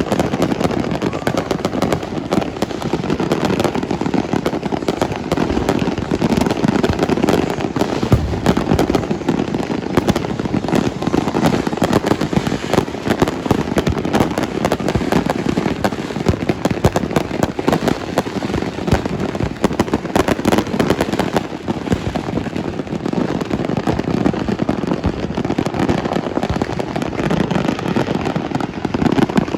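Fireworks and firecrackers going off all around in a dense, unbroken crackle of countless overlapping bangs and pops.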